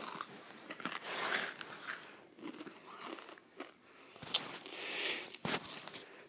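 Close-up crunching and chewing of a crisp cracker, in irregular crackly bursts, with two sharp clicks in the second half.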